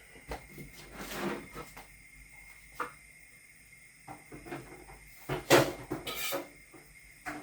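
Kitchen handling sounds: scattered knocks and clicks of things being moved and set down, with a louder clatter a little past five seconds in and again about a second later.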